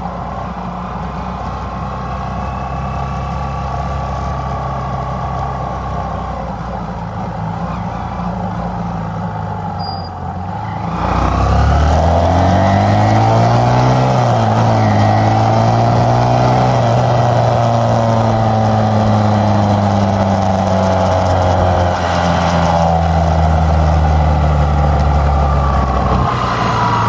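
Motorcycle engine through its stock exhaust, running steadily under way. About ten seconds in it gets markedly louder as the engine revs up through rising and falling pitch, then holds a steady, louder note, with a brief dip about two-thirds through and a falling note at the end.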